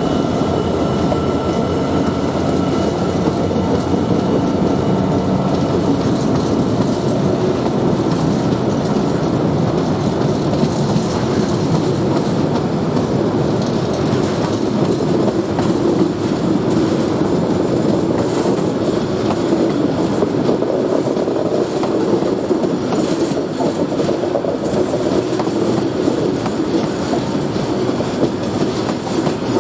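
A freight train passing close by, its wagon wheels rolling over the rails in a steady loud rumble. Sharp clicks and knocks from the wheels come through, thicker in the second half.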